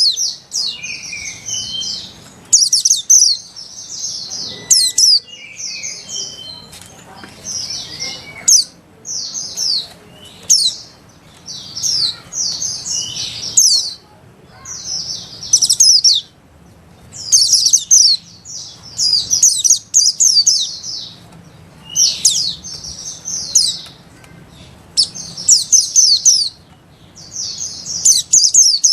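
White-eyes (pleci) singing: fast, high-pitched twittering phrases, one after another every second or two, the rapid chattering song that bird keepers call ngeriwik.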